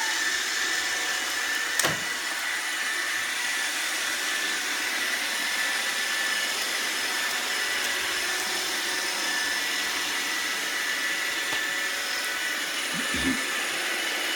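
Roomba robot vacuum running with a steady whir and a constant high whine. A sharp click about two seconds in, and a low thump near the end.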